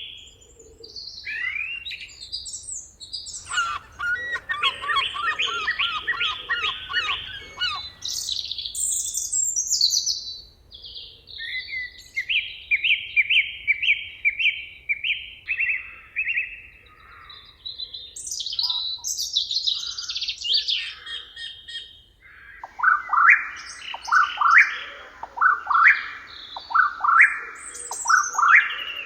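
Several songbirds singing together: chirps, trills and repeated whistled phrases overlapping. Near the end comes a loud run of short sweeping notes, about one a second.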